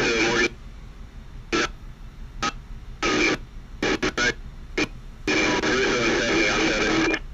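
Police radio traffic: several short keyed-up bursts, then a longer garbled voice transmission starting about five seconds in, over a steady low hum.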